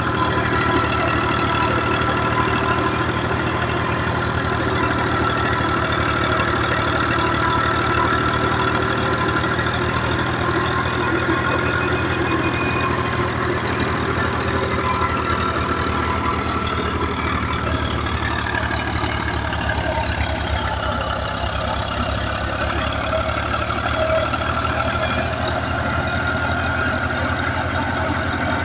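Al-Ghazi tractor's diesel engine running at a steady speed, an even low chugging throughout.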